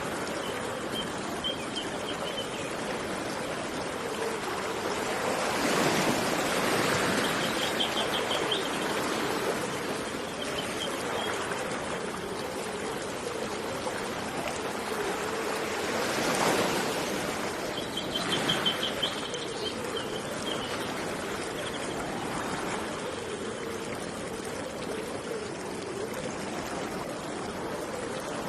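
Stream of water running steadily, swelling louder twice, with a small bird giving a short high trill four times over it.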